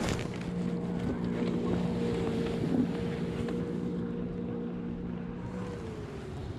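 Motorboat engine running steadily, its pitch dropping near the end. A sharp knock comes right at the start, and wind rumbles on the microphone.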